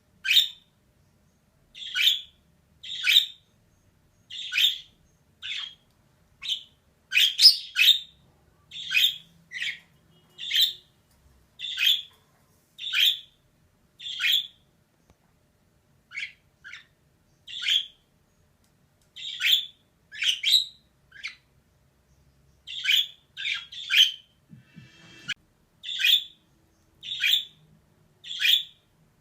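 Female budgerigar calling: short, sharp, high chirps roughly once a second, some in quick pairs, with a brief low buzz near the end.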